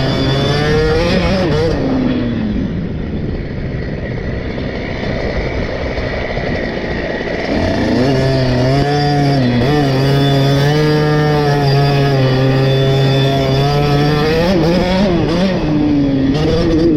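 KTM 50 SX two-stroke engine on the track, running at high revs, then falling off the throttle about two seconds in and staying low for several seconds before revving back up and holding steady. Near the end it dips briefly and picks up again.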